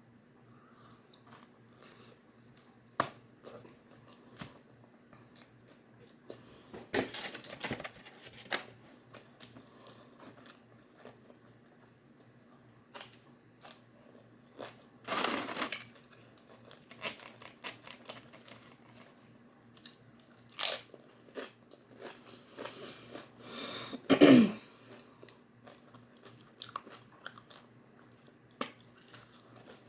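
Close-miked chewing and crunching of food, with scattered small clicks and a few louder crunching bursts.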